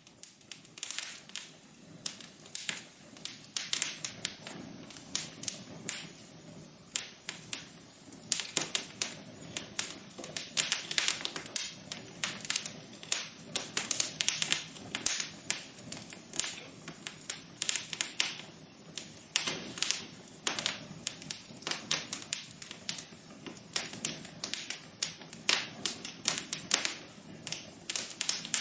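Wood fire crackling in a fireplace: a dense, irregular run of sharp pops and snaps over a soft, steady hiss.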